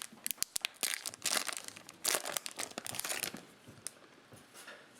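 Cellophane trading-card pack wrapper crinkling and tearing as a cello pack is opened. The crackling is dense at first and dies down about three and a half seconds in.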